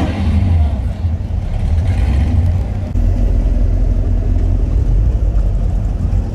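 Car engine running at low speed with a deep, steady exhaust rumble.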